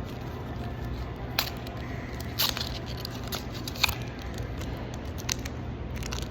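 Foil Pokémon booster pack crinkling as it is handled, with a few short sharp crackles about a second and a half, two and a half and four seconds in, over a steady low hum.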